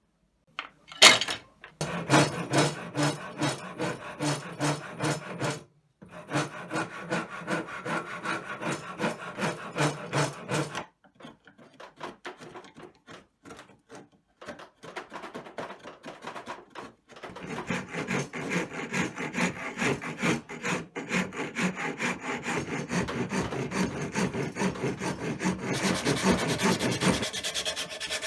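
A hand tool worked back and forth on wood in regular strokes, about two a second, thinning out for a few seconds in the middle. Near the end it turns to a finer, hissing rub.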